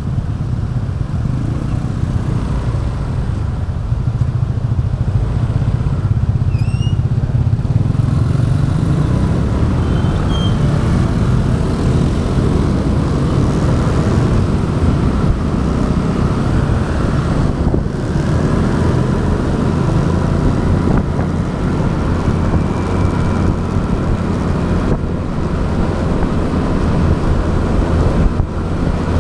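Motorbike running steadily under way, heard from the rider's action camera, with road and traffic noise around it.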